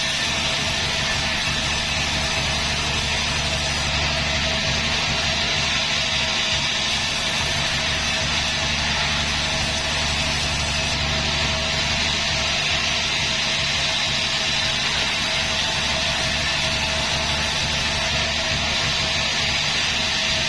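Sawmill machinery running steadily: a low engine hum under a continuous saw whine and a rushing noise.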